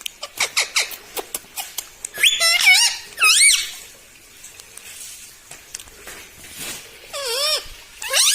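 Pet ringneck parakeet calling: a quick run of short, sharp chips, then squeaky warbling calls that bend up and down in pitch, with another pair of warbles near the end.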